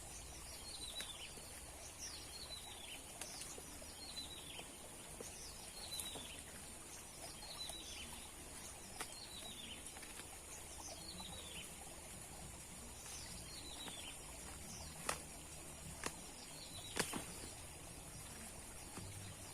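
A bird calling over and over, each call a short falling note, about one a second, over a steady high hiss. Three sharp clicks come near the end.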